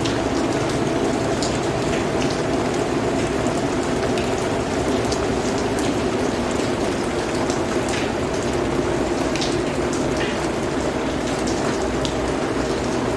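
Steady rain falling, a constant even wash with scattered sharp individual drips.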